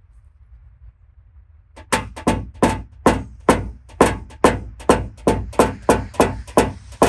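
Quick, even hammer taps on a car fender's sheet metal, about four to five a second, starting about two seconds in, each with a short metallic ring. These are paintless dent repair tap-down strokes, leveling the panel.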